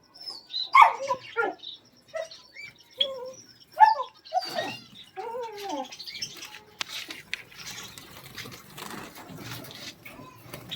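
Caged birds calling: a run of short chirps and arched, rising-and-falling calls over the first six seconds. These give way to softer rustling with scattered clicks and flutters.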